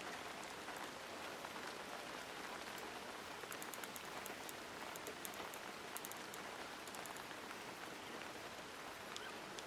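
Faint, steady rain-like hiss, with a few light high clicks now and then.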